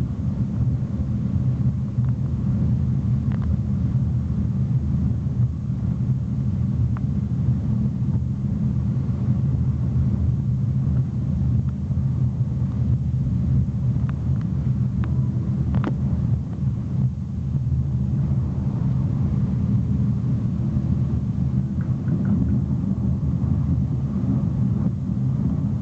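Steady low rumble of a moving passenger train heard from inside the coach, its wheels running on the rails, with a few faint ticks.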